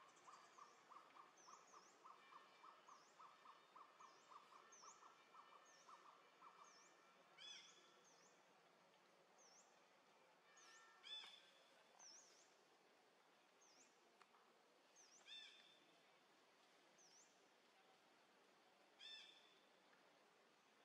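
Faint bird calls outdoors. A fast run of short chirps lasts for about the first six seconds, small high chirps repeat throughout, and four louder calls come spaced a few seconds apart.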